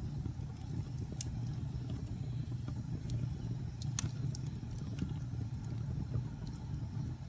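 Fire burning in a fireplace: a steady low rumble of flames with scattered crackles and pops, the sharpest pop about four seconds in.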